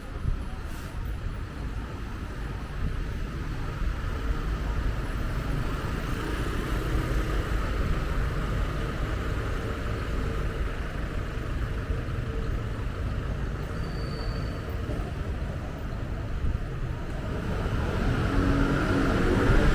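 Road traffic: car engines running and passing with a low rumble, getting louder near the end.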